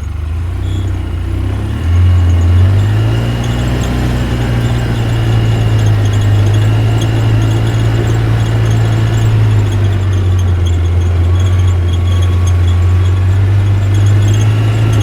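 Loud, steady low engine-like drone that steps up slightly in pitch about two seconds in, then holds, starting and stopping abruptly.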